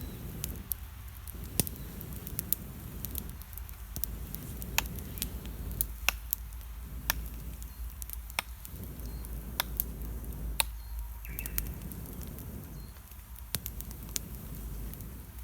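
Campfire of wet wood crackling, with many sharp pops scattered throughout. Under it a rush of air comes and goes in spells of one to two seconds, as someone blows long breaths into the fire through a fire-blowing pipe to get the damp fuel to catch.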